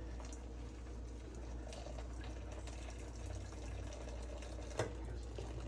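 Water bubbling and gurgling as it heats for coffee, over a steady low hum, with a single sharp click near the end.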